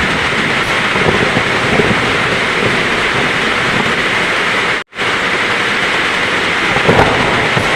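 Heavy rain falling steadily, with low thunder rumbling under it. The sound cuts out for an instant about five seconds in.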